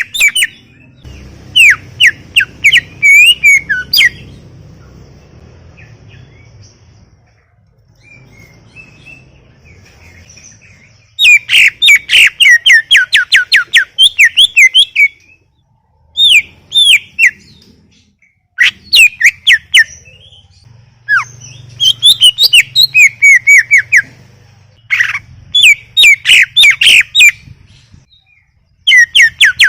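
Cucak ijo (green leafbird) singing in bouts of fast, sweeping whistled notes, each bout a few seconds long with short pauses between.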